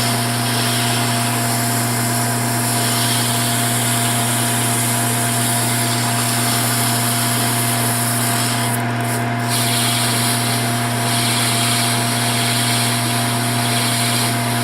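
Metal lathe running at a steady speed, its motor humming, while a maroon Scotch-Brite abrasive pad is held against the spinning workpiece, giving a steady hiss of rubbing. The hiss thins briefly about nine seconds in.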